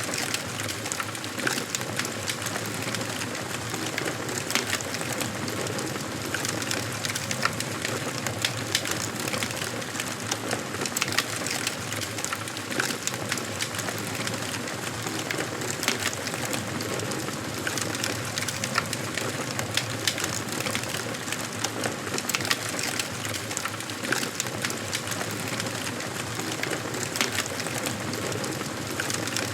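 Wood fire burning in a fireplace: a steady hiss with frequent, irregular crackles and pops of the burning logs.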